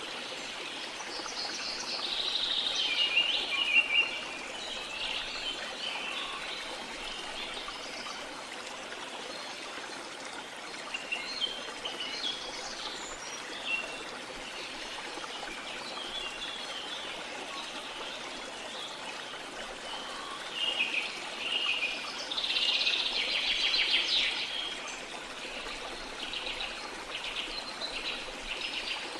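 Steady rush of falling water with birds chirping and calling over it, the calls bunching into busy spells a couple of seconds in and again about two-thirds of the way through.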